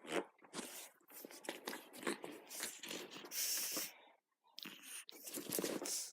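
A dog chewing and worrying a toy: irregular crunching and tearing noises with sharp clicks, pausing briefly about four seconds in.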